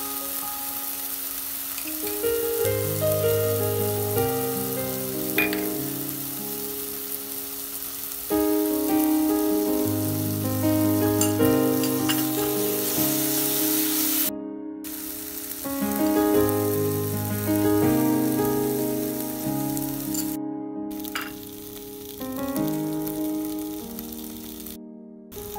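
Tomato, bay leaf and spice paste frying in oil in a nonstick pan with a steady sizzle, under instrumental background music with a stepping melody. The sizzle cuts out briefly three times while the music carries on.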